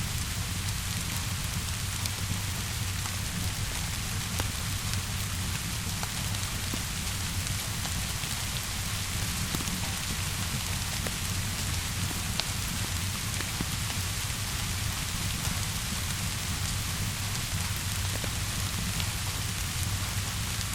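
Steady rainfall with a low rumble underneath, mixed with scattered faint sharp crackles of a fire.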